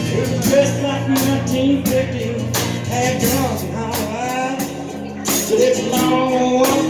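A blues-rock band playing live, with guitar and drums.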